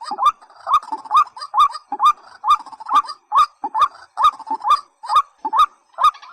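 A rail-family bird of the waterhen and watercock kind calling a fast, even series of short notes that rise in pitch, about two a second.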